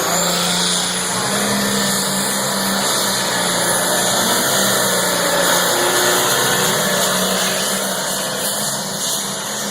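Loud engine of a pulling tractor running steadily at high revs, with an even drone and no breaks.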